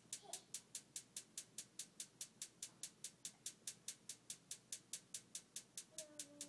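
Furnace ticking steadily, about four sharp ticks a second, while it fails to light: no flame and no heat come with the ticking. A brief faint hum sounds near the end.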